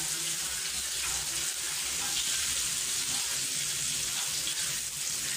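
Meatballs frying in shallow oil in a pan: a steady sizzling hiss.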